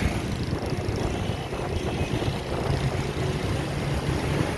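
Strong gusting wind buffeting the microphone as a loud, uneven low rumble.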